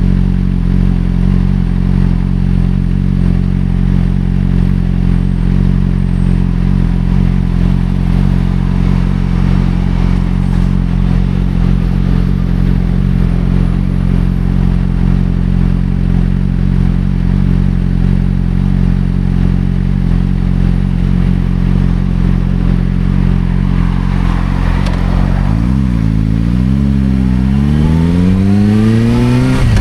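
Suzuki GSR600 inline-four idling steadily through a Dominator aftermarket exhaust. About three-quarters of the way through it is blipped up and down, then the revs climb steadily as it accelerates.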